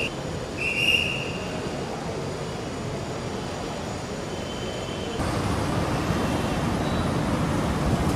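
Steady vehicle running noise, with two short high steady tones in the first second. About five seconds in, the sound changes abruptly and gets louder.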